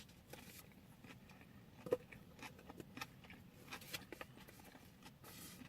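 Quiet eating and food-handling sounds: faint scattered clicks and light rustles, with one sharper click about two seconds in.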